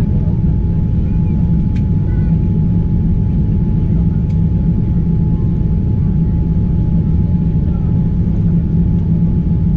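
Steady cabin noise inside a Boeing 787-9 during the approach and landing: the even, low rumble of the jet engines and airflow, with a faint steady tone above it. Two faint ticks come about two and four seconds in.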